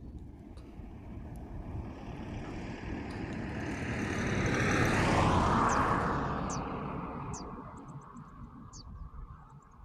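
A motor vehicle passing by: engine noise that builds to a peak about halfway through, drops in pitch as it passes, then fades away.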